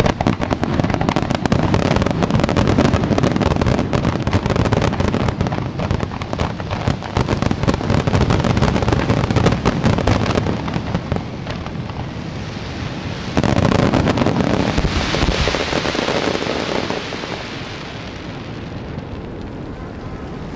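Fireworks display: a dense barrage of rapid bangs and pops for about ten seconds, then a sudden loud burst about thirteen seconds in that turns into a hissing crackle and fades.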